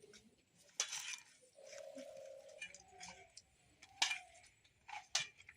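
A few scattered clinks and knocks of a dish and utensils while raw rohu fish pieces are rubbed with salt and turmeric by hand.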